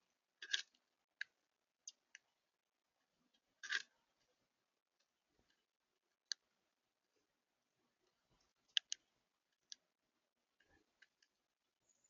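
Birds at a feeder making scattered short, sharp clicks and chips at irregular intervals. The two loudest and fullest come about half a second in and a few seconds later, and lighter single ticks follow.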